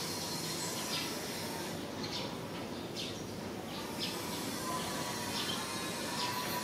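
Small birds chirping, short high calls scattered every half second to a second, over a steady low background hum of outdoor noise.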